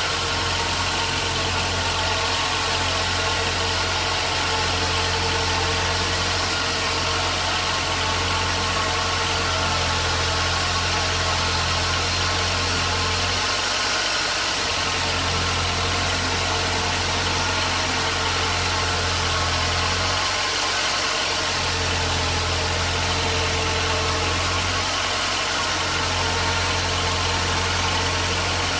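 Sawmill machinery running steadily: a low motor hum under an even hiss. The hum drops out briefly three times.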